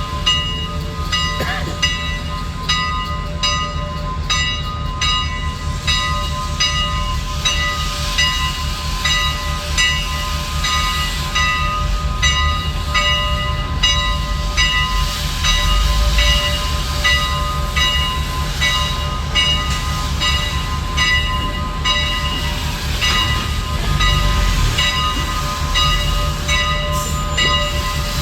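Locomotive machinery running steadily, with a steady whine and a rhythmic beat about twice a second over a low throb.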